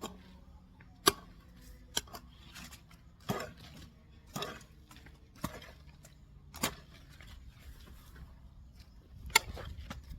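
Hand tool chopping into weeds and soil, a sharp strike roughly once a second with a longer gap before the last one.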